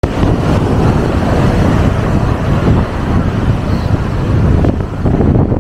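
Loud, strong wind blowing hard across the microphone, a dense low rumble in the wake of a typhoon.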